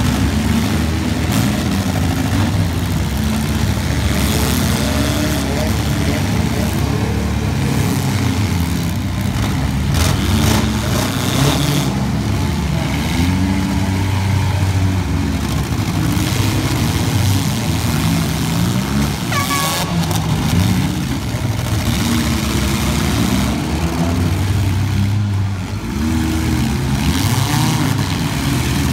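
Several demolition derby cars' engines revving unevenly at once, rising and falling throughout. A couple of crashes from the cars ramming each other, about ten seconds in and again near twenty seconds.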